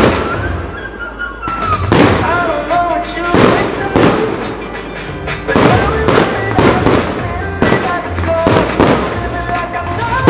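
Fireworks bursting in a quick series of sharp bangs, about a dozen, some close together, with the display's music soundtrack playing beneath them.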